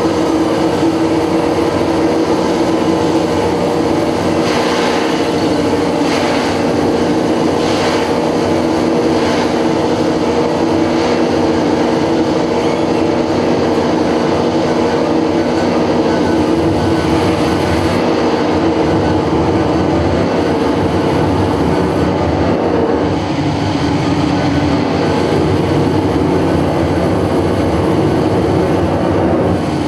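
Live experimental noise music from an improvising ensemble: a dense, loud wall of noise over steady droning tones, with a few brief scraping swells in the first few seconds and less high hiss in the second half.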